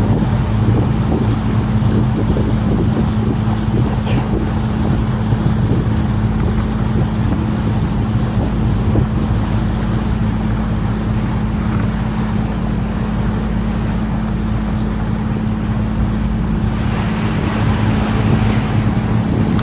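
Canal tour boat's engine running steadily at cruising speed, a low drone, with wind rushing on the microphone that strengthens near the end.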